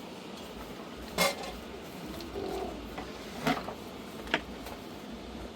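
Three short, sharp knocks or clinks: about a second in, about three and a half seconds in, and a second after that, over a steady background hiss.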